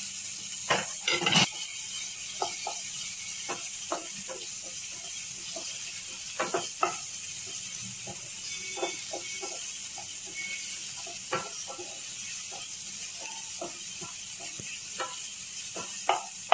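Chopped onion and tomato frying in oil in a non-stick pan, a steady sizzle. A spatula scrapes and knocks against the pan at irregular moments as the mixture is stirred.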